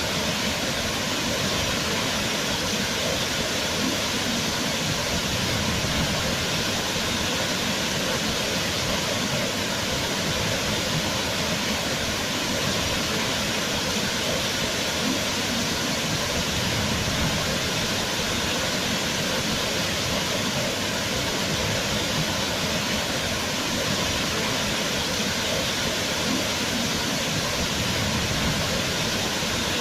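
Waterfall: water falling and rushing in a steady, unbroken roar of noise with no other sounds.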